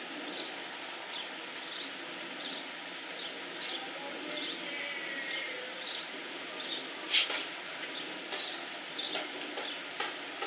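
A bird repeating a short, high, falling chirp about three times every two seconds, over a steady background hiss. A sharp click about seven seconds in is the loudest sound, with a couple of lighter clicks near the end.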